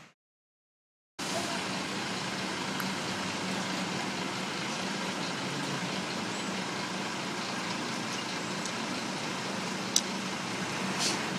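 Steady outdoor noise like road traffic, after about a second of dead silence at the start. A single sharp click comes near the end.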